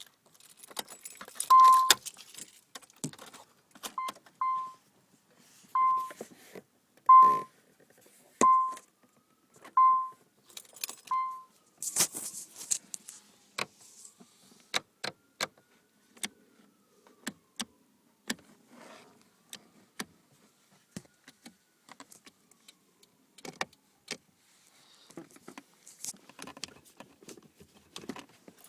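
Keys jangling and many sharp clicks, with a short electronic beep repeating about eight times, roughly every second and a half, over the first half. No engine cranking or running is heard.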